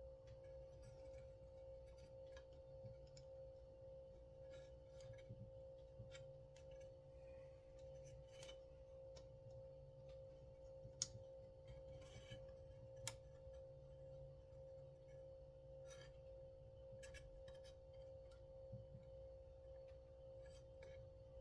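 Near silence: a faint steady hum with scattered small clicks and taps of the pull-starter parts being handled, two sharper clicks near the middle.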